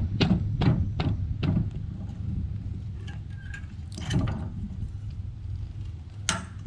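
Hi-Lift farm jack being worked into place: a quick run of sharp metal clacks, about two or three a second, then a few scattered knocks.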